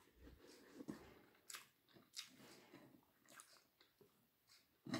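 Faint chewing and soft mouth clicks of a person eating fried rice by hand.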